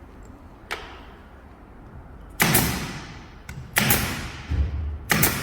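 Carpentry work sounds: a light knock, then three loud sharp bangs between one and a half seconds apart, each with a brief ringing tail, and a dull thud between the second and third.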